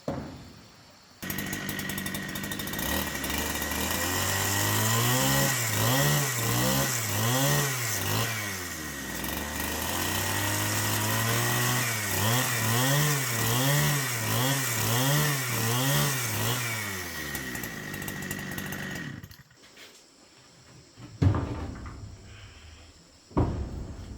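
Chainsaw engine running, its revs rising and falling over and over about twice a second, then cutting off. Two sharp knocks follow near the end.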